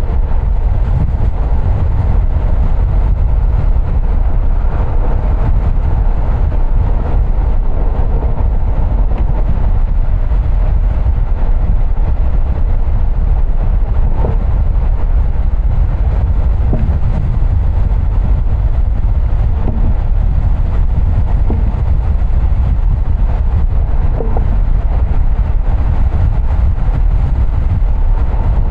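Car driving: a steady low rumble of road, tyre and engine noise.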